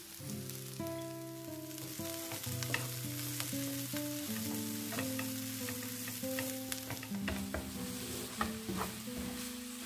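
Fresh spinach and onion sizzling in a frying pan while a wooden spatula stirs them, with scattered scrapes and taps against the pan. The sizzle grows louder about two seconds in.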